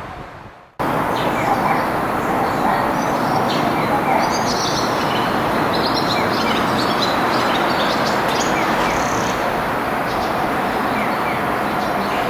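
Small birds chirping over a steady, even rushing noise.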